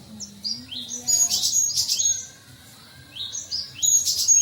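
Cinereous tit (gelatik batu) calling: phrases of quick, high chirping notes, loudest twice, a little over a second in and again near the end, with a quieter gap between.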